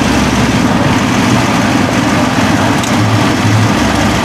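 Aston Martin V8 Vantage's V8 engine idling steadily through its exhaust.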